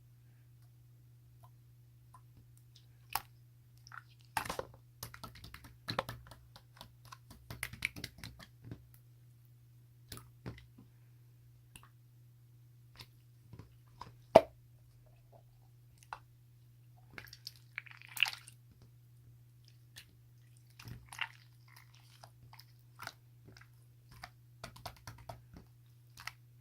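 Irregular soft clicks, taps and crinkly rustles close to the microphone over a steady low hum, with one sharper click about fourteen seconds in.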